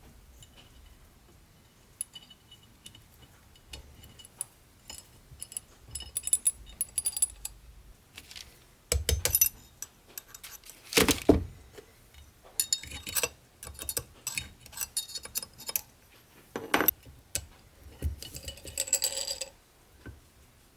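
Metal bench-vise parts being handled: a string of light clicks and taps, then heavier clinks and knocks of steel on steel, with a short metallic ring near the end.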